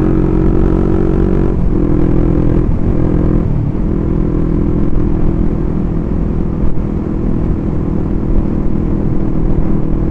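Motorcycle engine running at cruising speed, heard from the rider's position. Its note breaks briefly a few times in the first four seconds, then holds steady, over a constant low rumble of wind and road noise.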